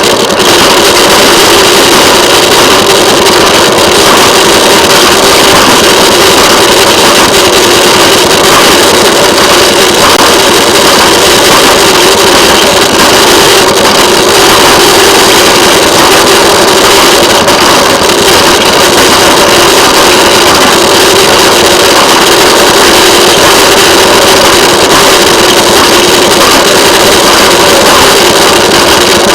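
Railway motorcar (track speeder) engine running loud and steady as the car travels along the rails.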